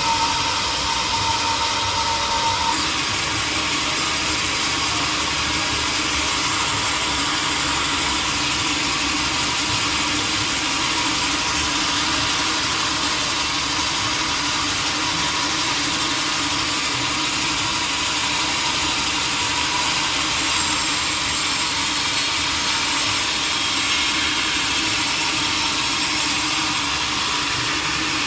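Sawmill saw running and cutting through a teak log: a loud, steady machine noise with an even hum underneath.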